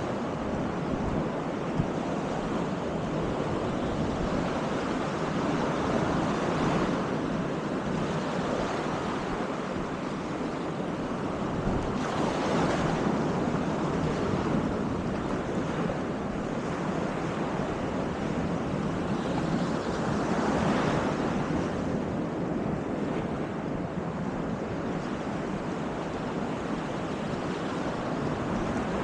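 Baltic Sea surf washing onto the beach: a steady rush of breaking waves that swells louder every several seconds, with wind buffeting the microphone.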